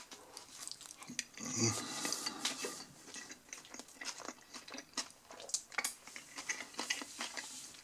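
A person chewing a mouthful of burger close to the microphone, with many small irregular mouth clicks and squelches. A short low hum comes about one and a half seconds in.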